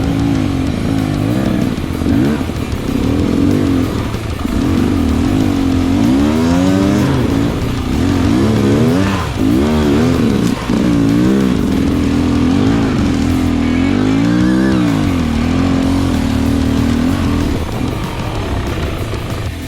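Dirt bike engine revving up and down repeatedly as the bike works over rough, rocky ground, with the pitch rising and falling every second or two.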